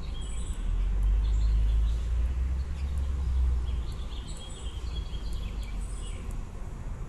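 Small birds chirping in short, high, repeated calls, which the title suggests are baby birds, over a steady low rumble that is loudest in the first half.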